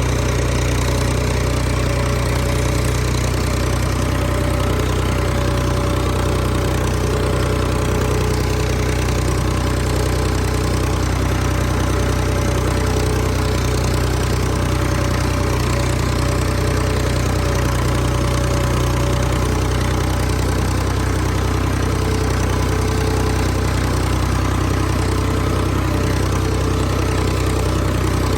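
Engine running steadily at an even speed, with a faint regular pulsing in its low hum, as the machine scrapes a field.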